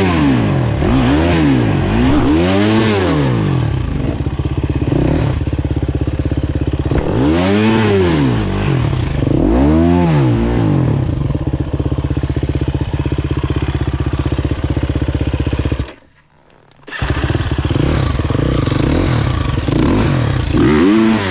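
Dirt bike engine being revved up and down over and over, the pitch rising and falling in quick swells with steady running between. The sound drops out for about a second past the middle, then the engine picks up again.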